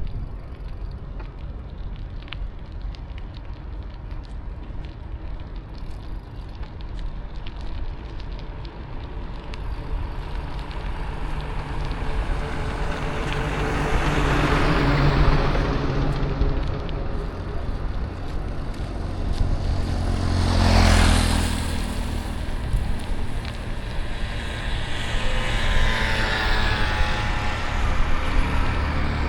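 City street traffic heard from a moving bicycle: a constant low road rumble, with motor vehicles passing close by. The loudest pass comes about two-thirds of the way through, and another engine goes by near the end with a falling pitch.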